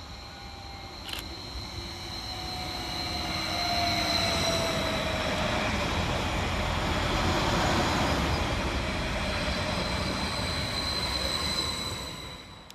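Transport for Wales Class 231 Stadler FLIRT diesel multiple unit pulling into the station. Its noise builds over the first few seconds and holds steady as it rolls past, with a whine falling in pitch as it slows and a steady high tone throughout. There is a single click about a second in, and the sound drops away near the end.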